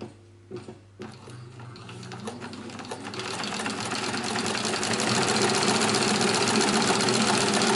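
Cowboy CB 6900 heavy-duty sewing machine stitching through a 6 mm thick strap: a few clicks, then the machine starts about a second in and speeds up over the next few seconds to a fast, steady run.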